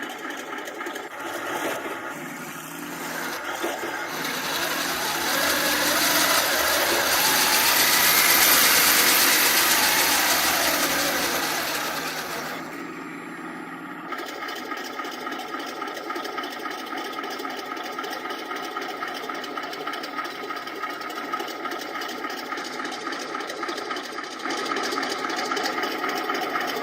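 Elmod Fusion ECO sound module in a KV-2 model tank playing its sampled tank engine and track squeak through the model's speaker. The sound builds to its loudest about eight seconds in, falls away a few seconds later, then settles into steady running from about fourteen seconds in.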